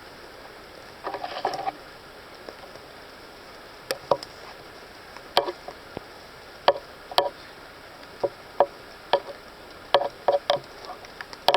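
Footsteps on a muddy forest slope: irregular sharp steps and knocks, roughly one a second, after a brief rustle about a second in, over a steady background hiss.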